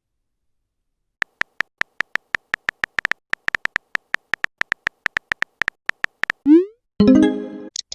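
Rapid run of short, identical electronic beeps at one pitch, a chat-animation typing sound with one beep per character, starting about a second in. Near the end a quick rising swoosh leads into a brief multi-tone chime, a message-sent notification.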